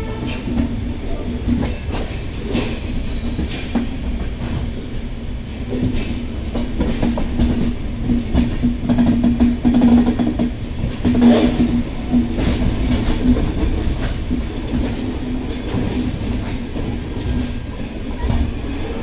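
Express train running on the rails: a steady hum over a rumble, with irregular clacks of the wheels over rail joints.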